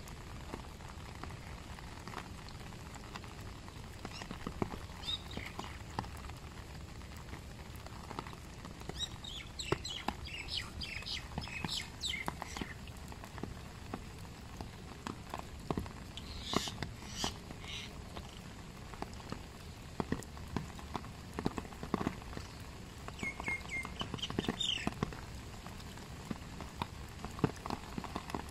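Steady rain with scattered drips and taps on surfaces. A small bird chirps in quick runs of high notes three times: about a third of the way in, just past halfway, and again later on.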